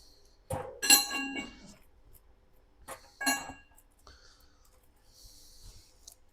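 Metal parts of the unicycle's suspension shock being handled, clinking twice with a ringing tone: once about a second in, then again about three seconds in.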